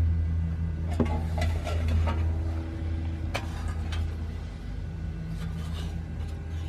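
Thin metal parts clinking and knocking as they are handled and fitted together, several sharp knocks in the first half. Under them runs a steady low hum of shop machinery.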